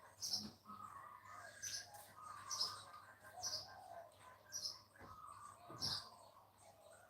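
Birds chirping: short high chirps repeating about once a second, with softer, lower calls between them.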